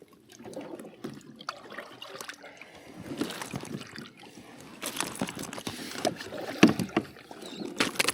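Irregular knocks, thumps and rattles against a plastic kayak hull as a freshly caught snook and gear are handled aboard, with some light water sounds; the loudest thumps come about six and a half seconds in and near the end.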